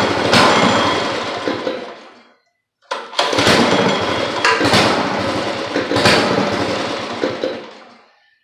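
Rototiller's small gasoline engine catching and running briefly, then fading away and dying, twice in a row.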